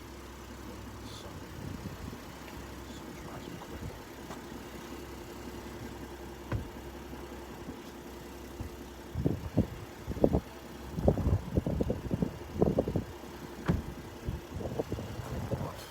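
Pickup truck engine idling steadily with a low, quiet hum. From about nine seconds in, irregular gusts of wind buffet the microphone and come through louder than the engine.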